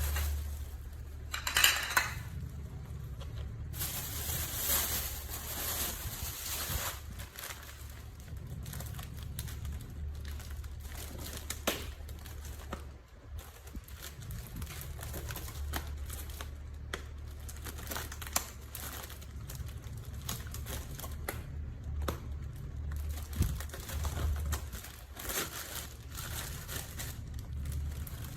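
Crinkling and rustling with scattered small clicks and taps, over a steady low hum.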